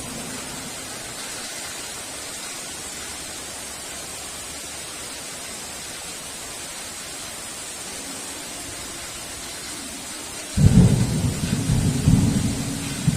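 Steady heavy rain hissing. About ten seconds in, a sudden loud low rumble of thunder breaks in and rolls on in waves.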